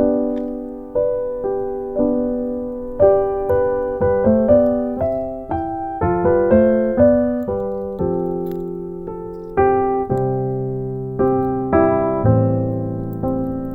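Background music: a solo piano playing a gentle melody of single struck notes, with fuller low chords entering near the end.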